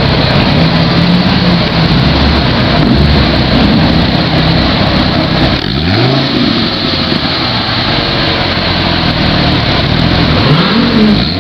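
Dodge SRT Viper's V10 engine running loudly, with quick revs that rise and fall in pitch about six seconds in and again near the end.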